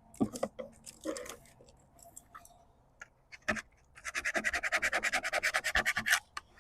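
Rapid back-and-forth scratching of a tool rubbed over a paper stencil on a wooden beehive box, pressing the design through onto the wood. It starts about four seconds in at roughly ten strokes a second, after a few light handling knocks.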